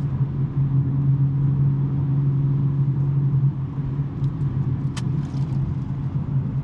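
2023 BMW M3 (G80)'s twin-turbo inline-six, with a non-resonated J-pipe exhaust, droning steadily while cruising. It eases off slightly a little past halfway, and a single sharp click comes about five seconds in.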